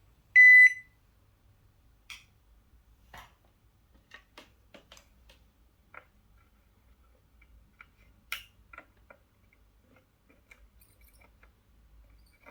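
A single short, high electronic beep about half a second in, the loudest sound, followed by faint scattered clicks and taps.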